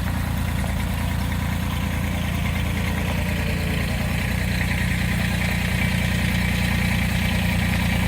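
Tractor engine running steadily, its note picking up a little about halfway through.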